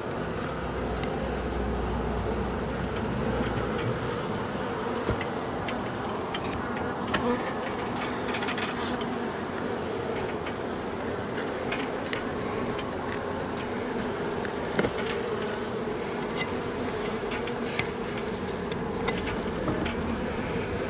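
A mass of honey bees from a colony opened up in a house wall buzzing in a steady, dense hum, with scattered light clicks over it.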